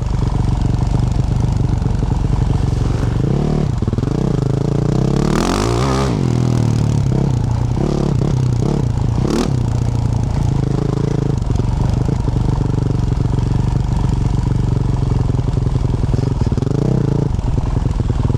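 Yamaha YZ450F's 450cc single-cylinder four-stroke engine running under way through a Yoshimura RS-12 exhaust, the revs rising and falling a few times. A short rush of noise comes about five seconds in and a sharp knock a little after nine seconds.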